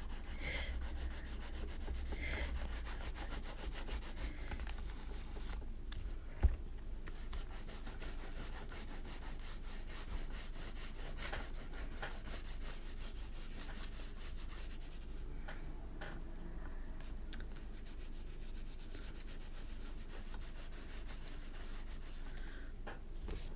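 Water-soluble wax crayon rubbed rapidly back and forth on paper, a steady scratchy colouring sound, with one soft knock about six seconds in.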